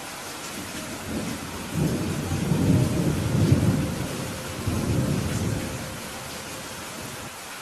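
Steady rain falling, with a roll of thunder rumbling up about a second in, loudest around the middle, and dying away after about six seconds.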